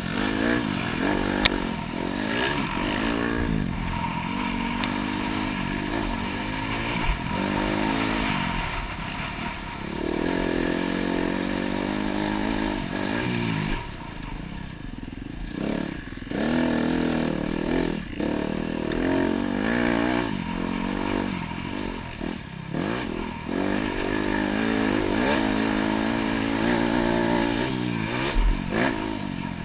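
Dirt bike engine revving up and easing off again and again as it is ridden around a motocross track, with rattling and a few sharp knocks from the bike over the bumps.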